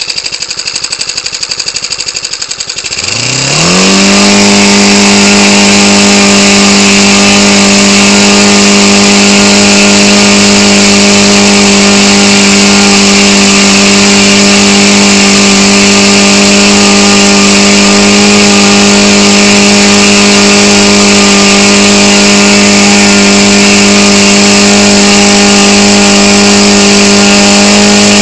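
Ryobi 29cc four-stroke engine driving an 18x6 wooden propeller, throttled up from idle about three seconds in: its pitch climbs quickly and then holds at a loud, steady high speed.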